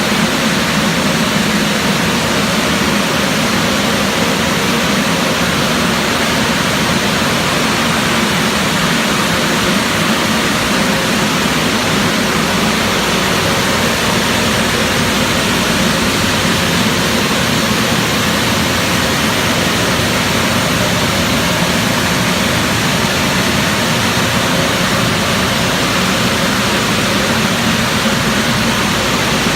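AOK DynaWash touch-free automatic car wash running: a loud, steady rushing noise that does not change.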